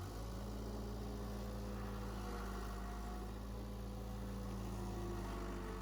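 Case skid steer's diesel engine idling steadily, a low even hum.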